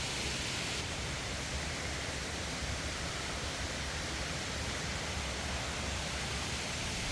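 A steady, even rushing noise with no distinct events or changes.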